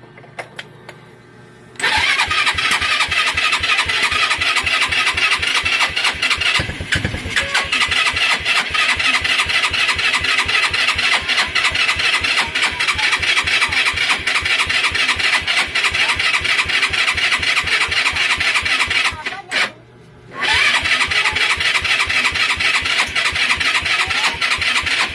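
Rusi Gala motorcycle engine being cranked over in long, evenly pulsing starting attempts, pausing briefly about three-quarters of the way through and then starting up again. The engine is hard starting, which the mechanic puts down to its two valves being out of adjustment.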